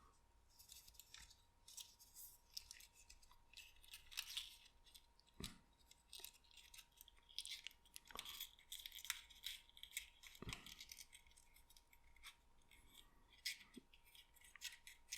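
Faint, irregular crinkling and clicking of thin printed card being creased and folded by hand, with a faint steady high tone underneath.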